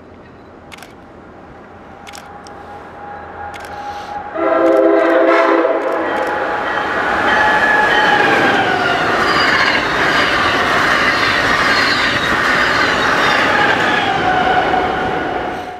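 Amtrak Acela high-speed train approaching and passing at speed: a rush that builds, a horn chord held for about a second and a half some four seconds in, then the loud rush of the cars going by with wheel clicks and a whine that falls in pitch as it passes.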